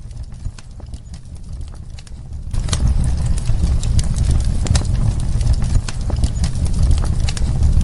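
Wood fire in a fireplace crackling, with irregular sharp pops and snaps over a steady low rumble; it grows louder about two and a half seconds in and drops back suddenly at the end.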